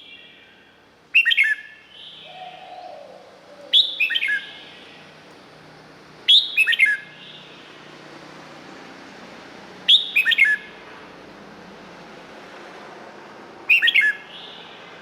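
Red-whiskered bulbul singing its short phrase five times, a few seconds apart. Each phrase is a quick run of loud notes stepping down in pitch, with softer warbling between them.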